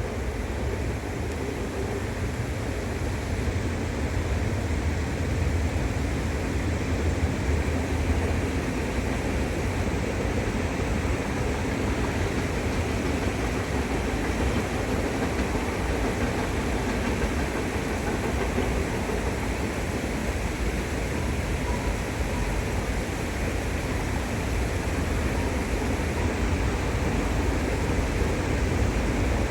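Train crossing a bridge over a river: a steady rumble of wheels on rails that swells over the first few seconds, then holds.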